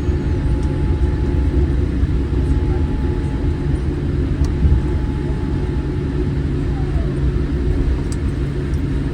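Cabin noise inside a Boeing 787-8 on the ground just after landing: a steady low rumble from the engines and the wheels rolling on the tarmac, with a faint steady whine and a few small rattles.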